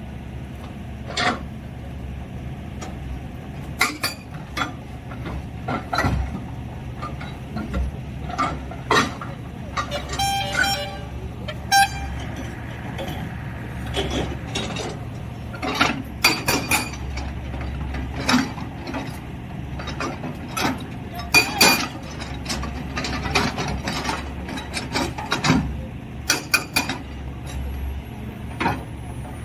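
JCB backhoe loader's diesel engine running steadily while its bucket digs rock, with repeated sharp clanks and knocks of steel on stone throughout, and a short high squeal about ten seconds in.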